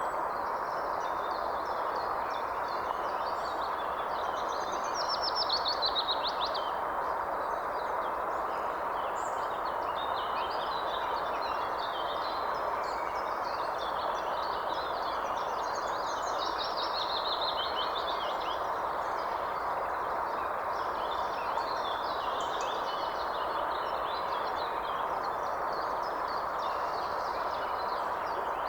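Several songbirds calling and chirping over a steady rushing noise, with trilled phrases about five seconds in and again around sixteen seconds.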